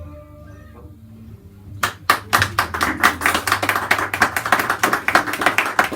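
The last guitar chord rings out and fades. About two seconds in, a small audience starts applauding, with steady, dense clapping to the end of the song.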